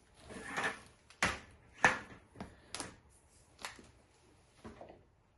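A rustle, then a handful of sharp clicks and knocks, about five, from handling the snowblower's controls. No engine is running.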